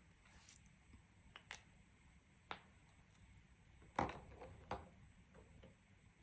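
A few light, sharp taps and clicks of coloring tools being handled and set against the paper or table, the loudest about four seconds in.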